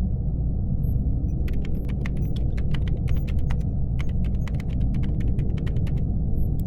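Laptop keyboard typing over a steady low spaceship hum. Two runs of quick key clacks start about a second and a half in, pause briefly midway and stop about a second before the end.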